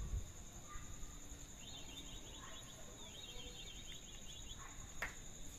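Outdoor nature ambience: a steady high-pitched insect drone, with two short rapid chirping trills about two and three seconds in and a sharp click near the end.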